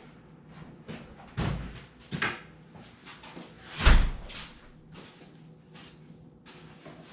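Knocks and bumps from clamps being handled and set on the glued foam boat sides: three main hits, about one and a half, two and four seconds in, the last the loudest, with lighter taps between.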